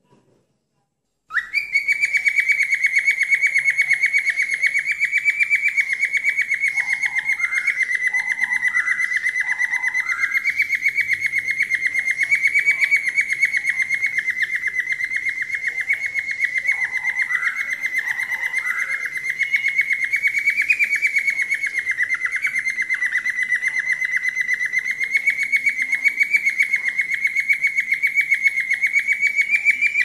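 A bird's rapid, unbroken trill at a steady high pitch, starting about a second in and running on without a break, with a few short lower chirps here and there; it is a looped recording played to train a cockatiel to pick up calls.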